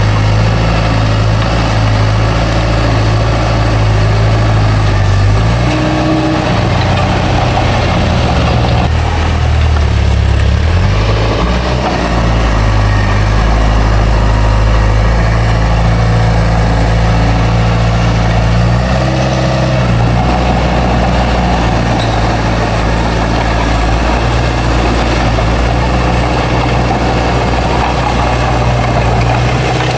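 Bulldozer's heavy diesel engine running steadily, its low note shifting as the load changes between about six and eleven seconds in and again near nineteen seconds.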